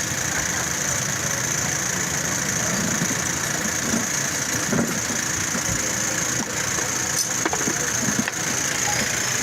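A motor running steadily, with a constant high hiss over a low rumble and a few faint clicks in the second half.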